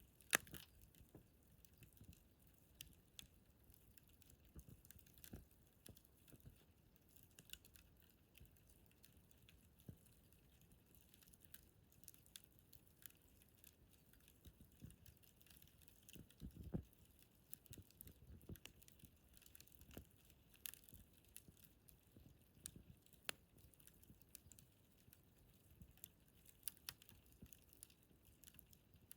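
Wood fire crackling quietly as it burns down, with irregular small ticks and pops and a louder pop just after the start and another about midway.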